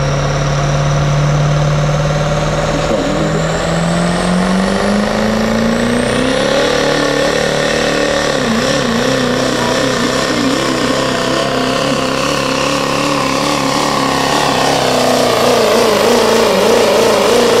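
Chevrolet Duramax V8 diesel pickup pulling a sled at full throttle, a deep growl that climbs in pitch over the first six seconds, then holds and wavers. A high whistle rises in pitch along with it.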